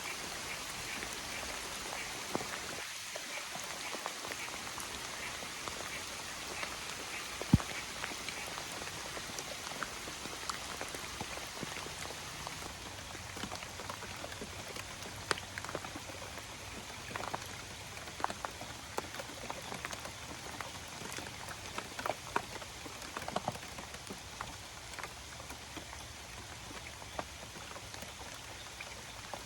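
Steady patter of water with many small splashes and drips, and one sharp knock about seven and a half seconds in.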